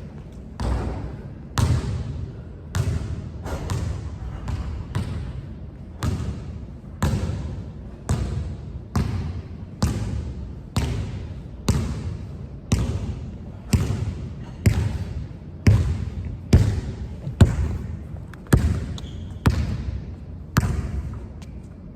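A basketball being dribbled on a hard court, a steady run of sharp bounces a little over one a second, each with a short echo.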